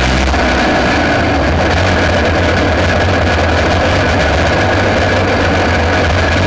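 Aixro rotary kart engine running steadily at a constant pitch, close and loud.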